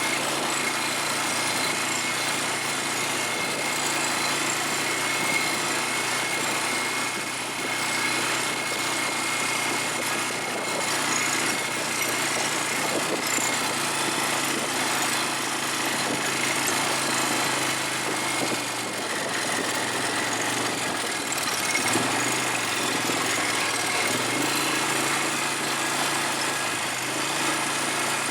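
ATV engine running steadily, its note dipping and picking back up about three quarters of the way through.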